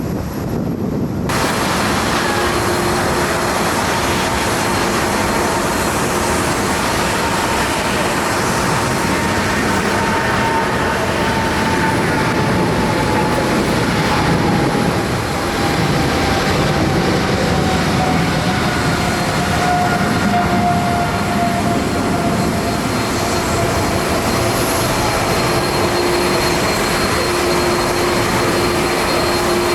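Jet airliner engines passing close by, a loud steady jet noise with a thin whine that slowly falls in pitch as the aircraft goes past.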